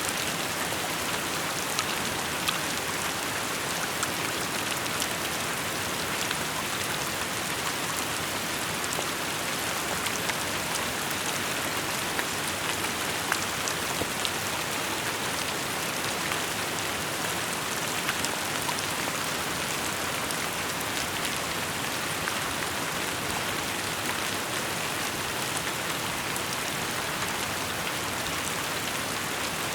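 Steady rainfall, a dense even hiss of rain with scattered individual drops ticking on hard surfaces.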